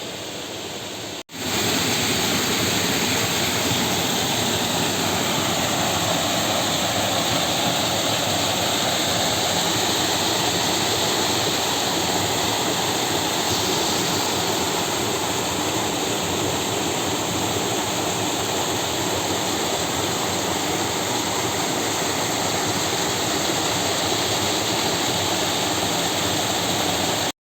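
Waterfall rushing in a steady, unbroken roar of water. It breaks off for an instant about a second in, comes back louder, and cuts off suddenly near the end.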